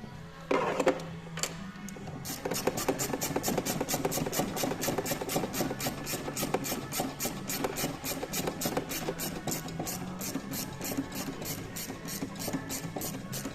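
A ratchet wrench with a 14 mm deep socket being cranked on a bolt, giving an even run of rasping clicks about four a second, after a single loud clunk near the start.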